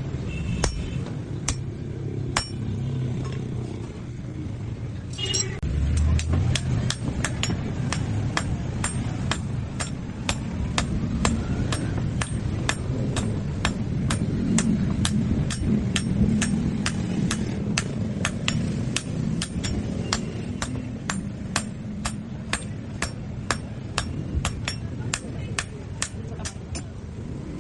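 Hand hammer forging steel on an anvil: a few spaced blows, then a steady run of about two strikes a second from about five seconds in.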